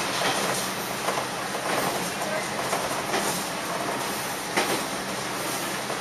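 Sanriku Railway diesel railcar running at speed, heard from inside the car: a steady rumble of engine and wheels on rail, with a few sharp clicks as the wheels cross rail joints.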